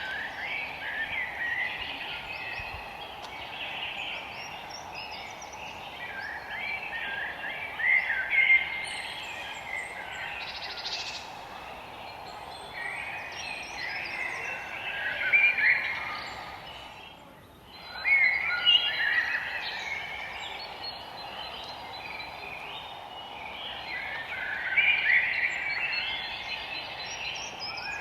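Songbirds singing in the forest, short chirping phrases recurring every few seconds over a steady background hiss, with a brief lull about two-thirds of the way through.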